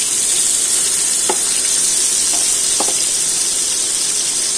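Chicken parcels wrapped in bottle gourd leaves sizzling steadily in hot oil in a frying pan, with a couple of light spatula clicks.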